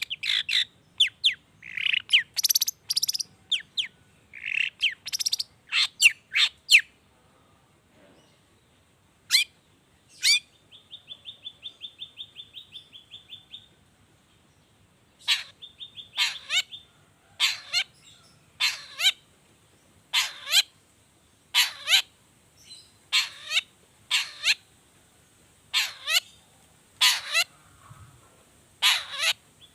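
Long-tailed shrike (cendet) singing. A burst of quick, varied notes in the first seven seconds gives way to a fast, even trill of about eight notes a second around the middle. From about halfway on comes a steady series of loud, downward-sweeping calls, roughly one every second and a third.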